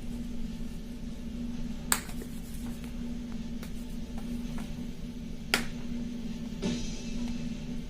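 A few sharp single snaps or clicks, two of them louder, about three and a half seconds apart, over a steady low hum in a large room.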